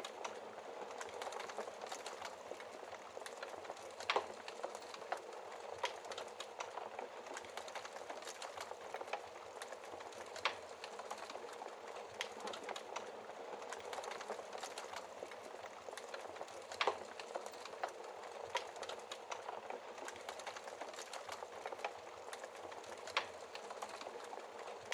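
Wood fire burning steadily, logs crackling with a continuous hiss and frequent irregular pops, a few louder snaps standing out about four, ten, seventeen and twenty-three seconds in.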